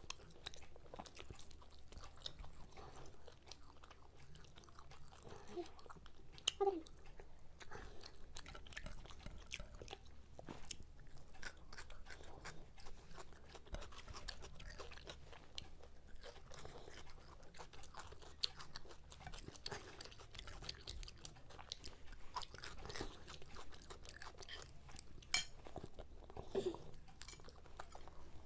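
Two people chewing and crunching fried food (Mughlai paratha and chicken chop) close to the microphone, with many small wet mouth clicks. One sharp click, the loudest sound, comes about 25 seconds in.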